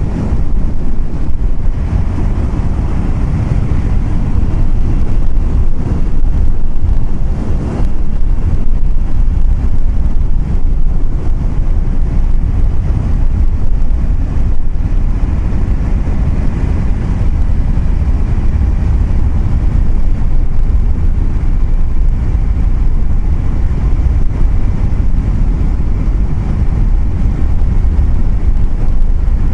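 Vehicle driving along a road: a steady, loud low rumble of road and wind noise, with wind buffeting the microphone.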